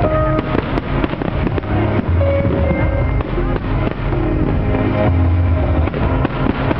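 Fireworks bursting over and over, many sharp bangs close together, while loud music with a heavy bass plays.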